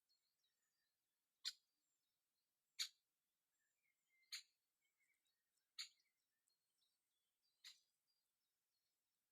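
Faint morning birdsong, with five short, sharp calls or clicks about a second and a half apart standing out against the quiet.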